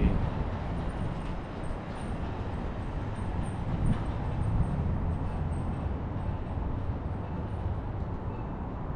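Steady low rumble of street traffic and riding, with wind on the microphone.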